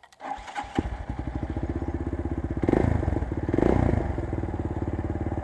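Chinese GX-R 250S 250cc motorcycle engine starting up, catching within the first second and settling into an even idle, blipped up twice briefly around the middle.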